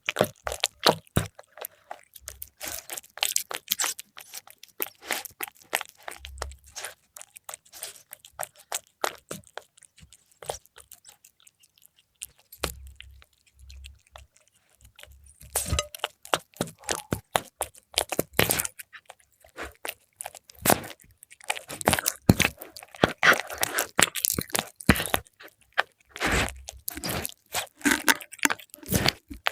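A cat chewing crispy fried milkfish: irregular runs of close, crackly crunches and bites. There is a lull of a few seconds midway, and the crunching is louder and denser in the second half.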